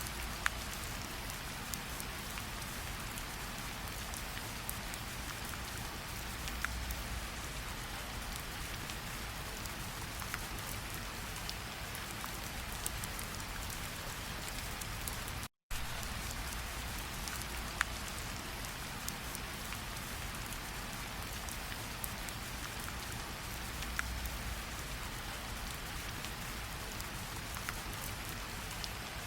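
Steady rain falling, a dense even hiss with scattered individual drops ticking sharply through it. About halfway through, the sound cuts out completely for a split second, then resumes unchanged.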